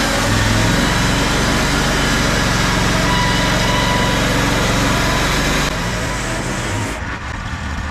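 Small engine running steadily. It drops in level and the low hum breaks up about six seconds in.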